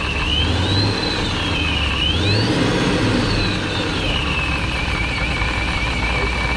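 Supercharged Hemi V8 blipped three times, its supercharger whine rising and falling with the revs, then settling into idle with a steady whine.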